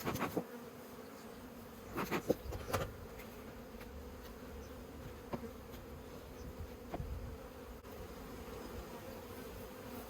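Honeybees buzzing steadily around an open top bar hive, with a few light knocks scattered through.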